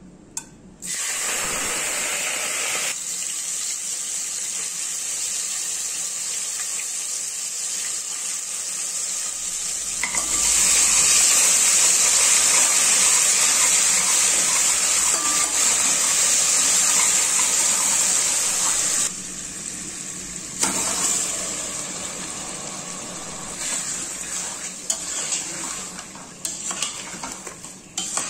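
Food frying in hot oil in a stainless-steel pot: a steady sizzle that starts about a second in, grows louder about ten seconds in and eases after about nineteen seconds. Near the end, a metal spoon clinks and scrapes against the pot as the food is stirred.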